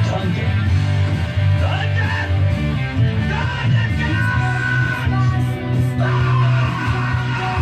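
Rock music with electric guitars and a singer.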